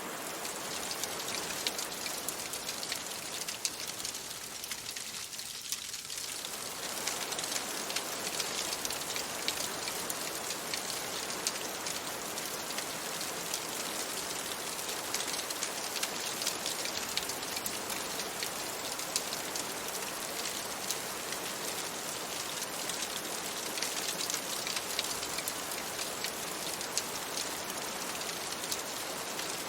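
Steady rain on a window pane, a dense patter with many small sharp drop ticks; the lower part of the sound thins briefly about five seconds in.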